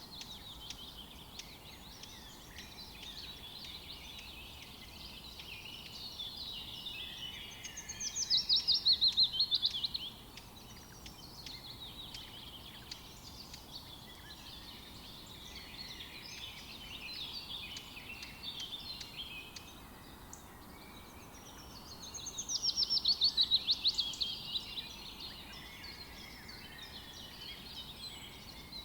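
A chorus of birds chirping and singing, with a loud, rapid trill that falls in pitch about eight seconds in and again around twenty-two seconds in.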